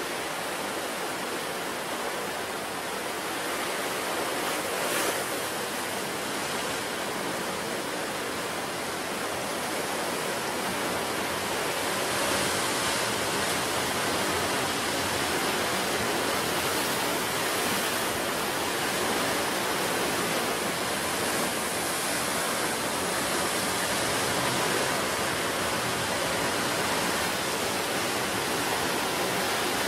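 Ocean surf washing continuously onto the shore, a steady rushing hiss that swells a little about five seconds in and again from about twelve seconds in.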